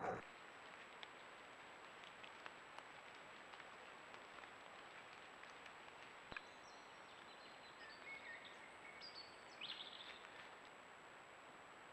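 Near silence: a trail camera's faint hiss with a steady high whine. From about six seconds in come a few faint bird calls, the loudest near ten seconds.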